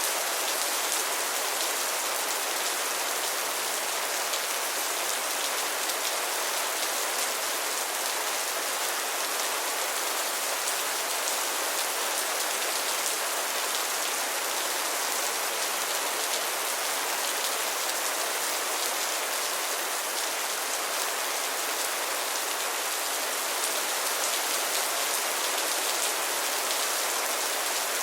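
Heavy rain falling steadily, a dense even hiss of drops hitting a surface, with no thunder or other sounds.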